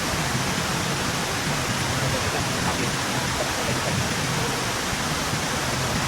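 Steady rushing noise, even and unbroken, with faint voices underneath.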